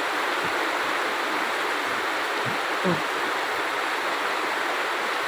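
Steady rain falling, an even hiss of water, with one brief low sound about three seconds in.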